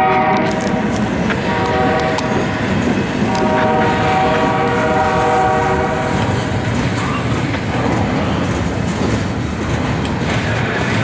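Freight locomotive horn sounding a chord in blasts: one ending about half a second in, a long one from about three to six seconds, and another starting near the end. Underneath is the continuous rumble and wheel clatter of a passing intermodal freight train.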